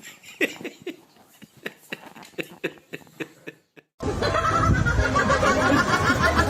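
A person laughing in short bursts. About four seconds in it cuts off, and a much louder, dense jumble of sound takes over.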